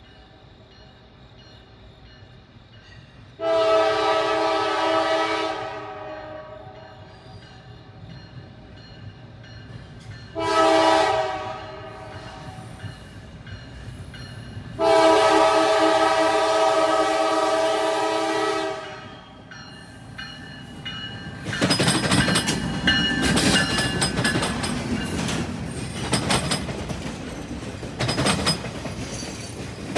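Norfolk Southern diesel locomotive horn sounding a long blast, a short blast and a long blast. About 21 seconds in, the train passes close by with a loud rumble and rapid wheel clicks over rail joints.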